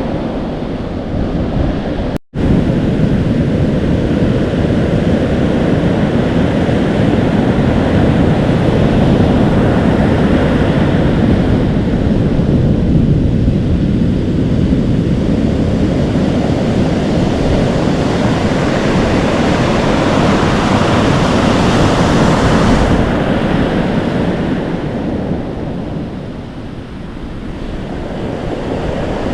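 Atlantic Ocean surf breaking, foaming and sizzling, with wind buffeting the microphone. The waves swell louder in the middle and ease off near the end, and the sound drops out for a split second about two seconds in.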